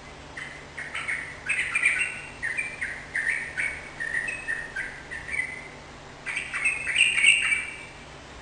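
Yellow-vented bulbul (trucukan) singing a run of short chirping notes, with a louder, denser burst of notes about six seconds in.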